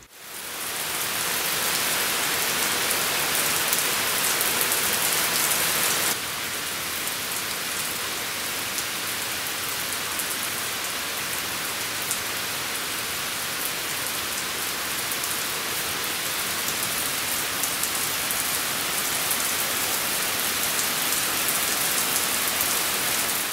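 Heavy rain falling on pavement, a steady hiss of drops splashing. It fades in at the start, drops slightly in level about six seconds in, and fades out at the end.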